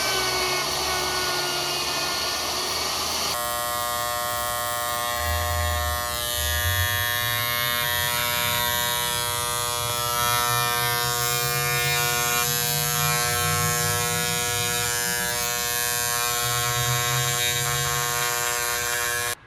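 Small tabletop router motor running steadily, routing a rounded edge on a dense ipe hardwood board. About three seconds in its sound changes abruptly to a steady whine of many even tones.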